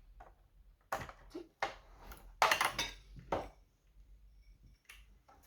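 Small metal screws and hard plastic parts being handled, giving a series of short clinks and knocks.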